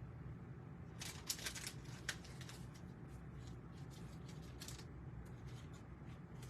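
Bowman Platinum baseball cards being handled and flipped through, a cluster of crisp clicks and swishes about a second in, then fainter card sounds, over a low steady hum.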